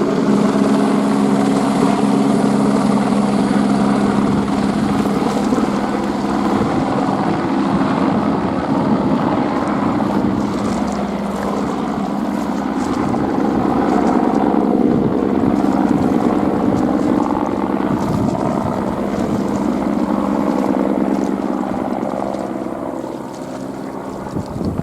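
Airbus AS350 helicopter's turbine and rotor running in flight, a loud steady hum with held low tones, getting quieter near the end.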